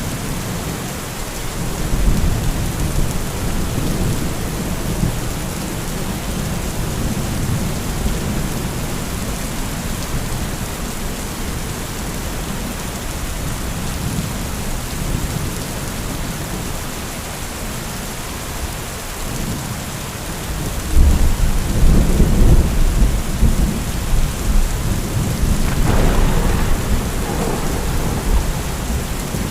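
Heavy rain falling steadily with rolling thunder rumbling underneath; the thunder grows louder about two-thirds of the way in, with a sharper crack a few seconds before the end.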